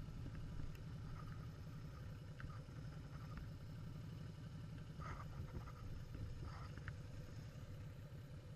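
Motorcycle engine running with a low, steady rumble.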